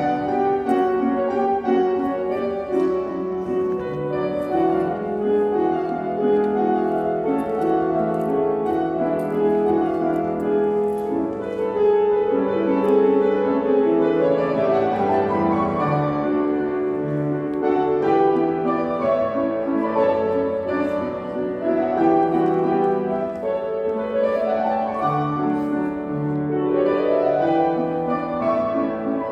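Piano music playing: a melody with chords that change note by note.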